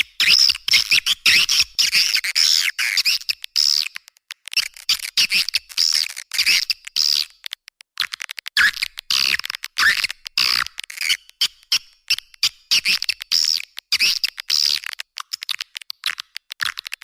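Swiftlet lure call: several swiftlets giving rapid, high-pitched twittering chirps and trills in quick overlapping runs, broken by brief gaps. It is a recording with the low end cut away, of the kind played to draw swiftlets into a nesting house.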